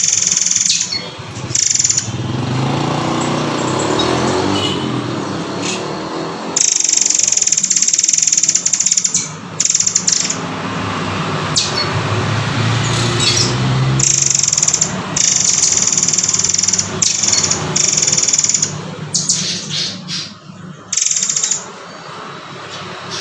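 Songbird calls and song of the murai air / murai kopi, played as a masteran recording: loud stretches of high, hissy calls broken by short pauses.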